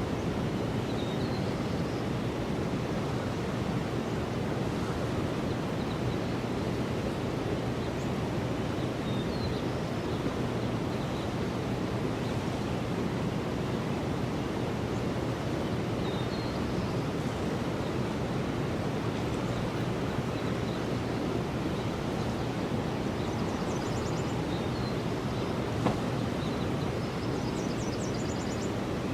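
Steady rush of river water flowing under a bridge, with faint short high bird chirps every several seconds and a brief trill near the end.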